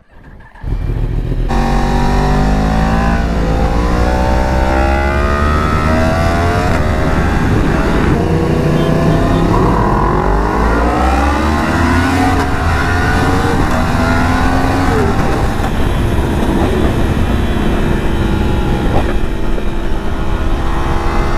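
Yamaha R1's crossplane inline-four engine revving and pulling through the gears, its pitch climbing and dropping again and again, with other sport bikes in the group running close alongside. It cuts in about half a second in.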